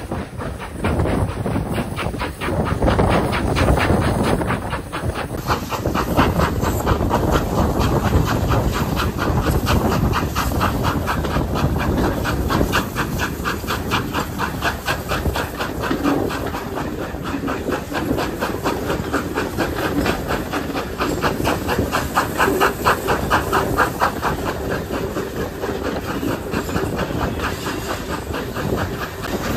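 Pannier tank steam locomotive working a train: a fast, even run of exhaust beats over a steady hiss of steam.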